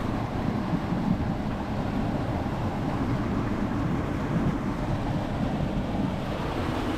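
Waterfall rushing steadily, a constant deep roar of falling water with no breaks.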